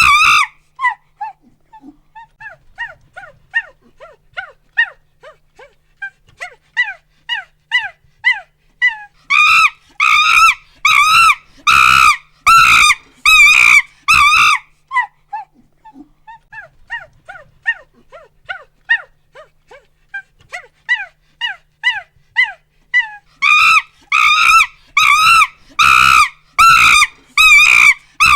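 Monkey hooting and screaming: a fast run of short, falling hoots builds into a string of loud screams about a third of the way in, drops back to quieter hoots, then climbs to loud screams again near the end.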